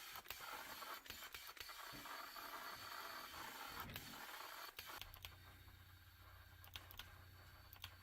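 Faint scraping and rubbing with scattered clicks, giving way about five seconds in to a steady low hum with a few sharp ticks.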